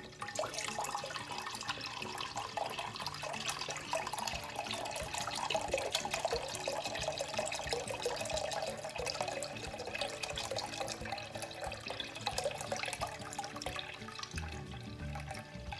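Milk being poured into a cooking pot: a continuous gush of liquid splashing into the pot. Quiet background music plays underneath.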